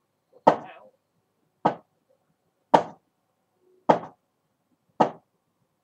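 Five sharp knocks, evenly spaced a little over a second apart, each short and dying away quickly.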